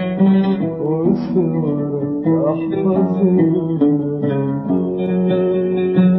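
Oud playing an instrumental passage of Arabic music, a continuous run of melodic notes between sung lines.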